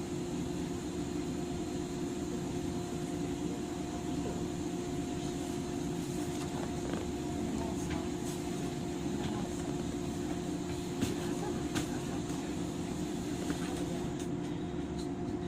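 JR 103 series electric train standing still, its on-board auxiliary equipment giving a steady hum at constant pitch, with a few faint clicks. The train is held after an emergency brake application.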